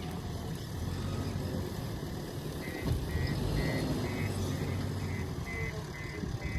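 Heavy diesel engine running with a steady low rumble. About two and a half seconds in, a reversing alarm starts beeping about twice a second.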